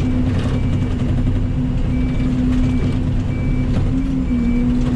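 Mini excavator's diesel engine running steadily under load, with a motion alarm giving short, high-pitched beeps over and over.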